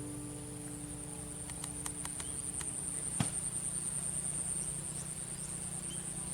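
Insects trilling: a high, steady buzz with a few faint clicks and one sharper tick about three seconds in.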